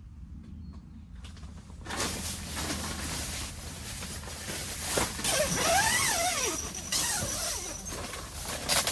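Air tent fabric rustling loudly, with squeaks and squeals of material rubbing partway through. The rustling starts about two seconds in.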